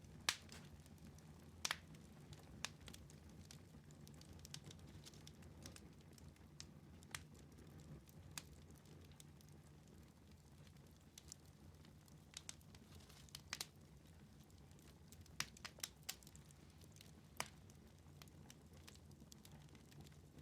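Wood fire in a fireplace crackling: scattered, irregular sharp pops, a few of them louder, over a low steady hum.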